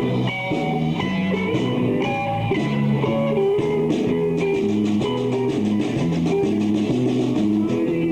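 A live bar band playing a blues-rock instrumental passage, with electric guitars and bass over a drum kit.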